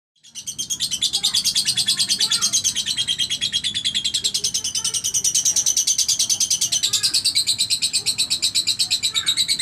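Lovebird singing its long, unbroken chattering song (the 'ngekek' of Indonesian bird keepers): a fast, even train of high-pitched notes at about eleven a second, without a pause. Faint lower chirps sound underneath.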